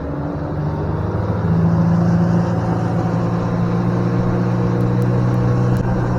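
Engine running steadily. It climbs in level and pitch over the first second and a half, then holds.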